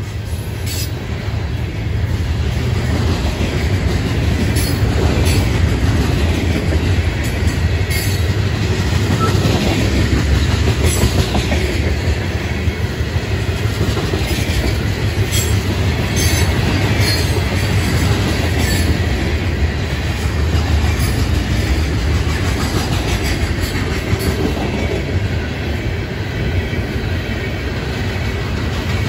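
Freight train cars rolling past: a steady rumble of steel wheels on rail, with irregular clacks as wheels pass over rail joints.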